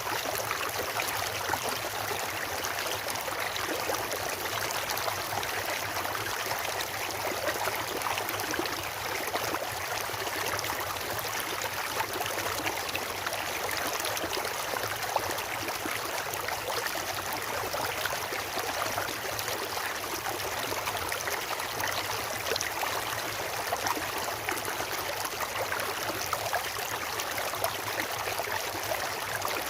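A stream of water rushing and splashing over rocks in a steady, unbroken flow.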